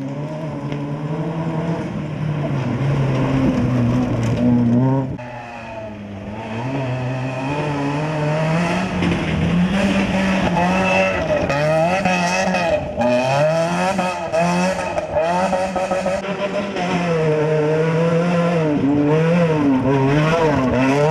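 Volkswagen Polo rally car engine being driven hard on a stage. It revs up and drops back again and again as the driver shifts and lifts off, with a short drop in revs about five seconds in.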